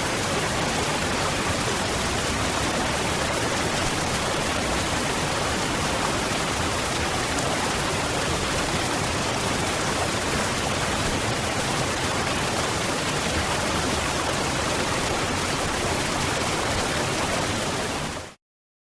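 Waterfall: a steady, even rush of falling water, which fades out sharply and goes silent near the end.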